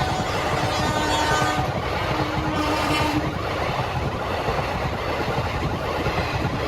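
Train horn sounding twice, a held blast that stops under two seconds in and a shorter one about a second later, over the steady rumble and clatter of train wheels on the track.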